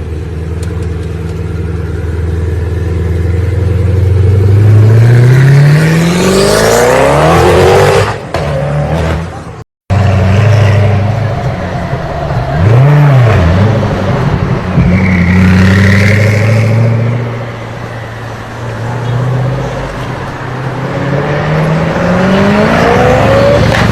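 Koenigsegg Agera's twin-turbo V8 being revved hard, its pitch climbing steeply several times with a quick rise-and-fall in the middle, as the car drifts. The sound drops out for an instant a little before ten seconds.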